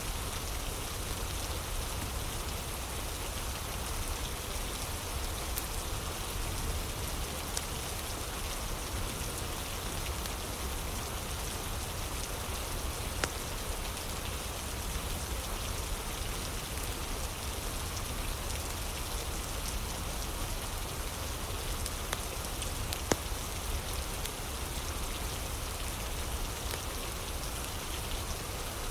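Steady rain falling, with a sparse crackling of a wood fire over it: small scattered pops and two louder snaps, one near the middle and one about three quarters of the way through.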